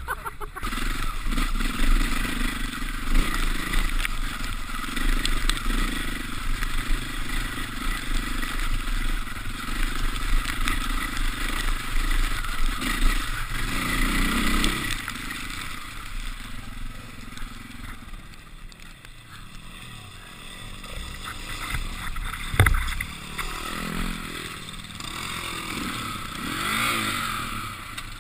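KTM dirt bike engine running under way, revving up and down in the last few seconds, with a single thump about two-thirds through.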